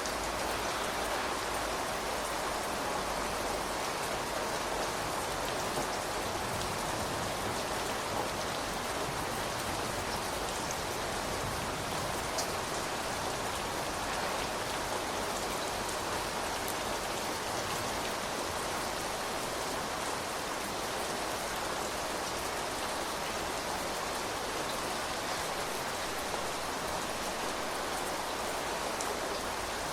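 Steady rain falling, an even patter of raindrops on surfaces with a few faint individual drop ticks.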